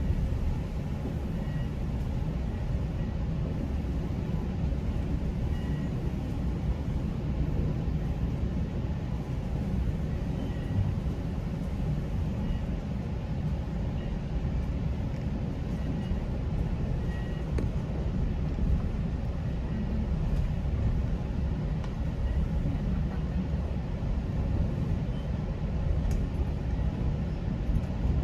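GO Transit commuter train running along the track: a steady low rumble.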